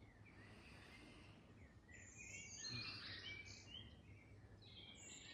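Faint birdsong: short chirps and twitters from small birds, busiest about two to three and a half seconds in, over a quiet low background hum.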